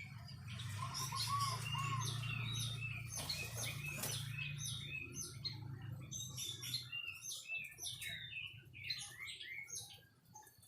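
White-rumped shama (murai batu) singing: a fast, varied run of short chirps and arched whistled notes. A low steady hum sits under the song for about the first seven seconds, then fades.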